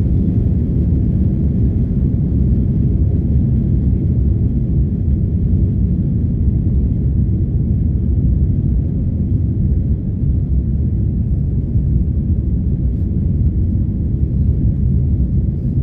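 Airbus A330 passenger-cabin noise: a steady low rumble of the jet engines and rushing air, heard from inside the cabin.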